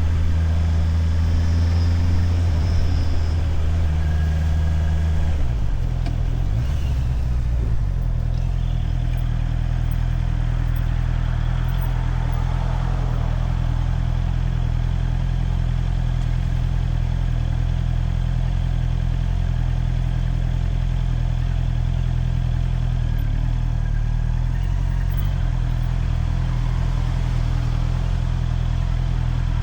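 Motorcycle engine heard from the rider's helmet camera. Its note drops about five seconds in, then holds at a low, even pitch for the rest of the time.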